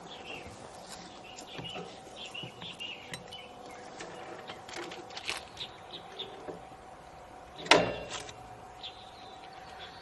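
Faint outdoor background with scattered bird chirps and a faint steady hum, and one sharp knock about three-quarters of the way through.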